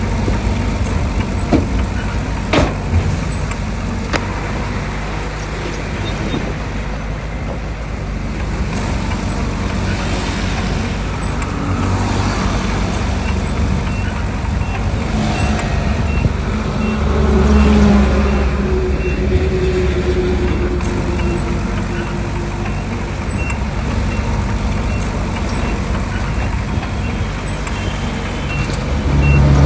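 Diesel engines of heavy earthmoving machinery, a bulldozer and dump trucks, running steadily under load. Two sharp knocks a few seconds in. The engine sound swells about halfway through and again at the very end.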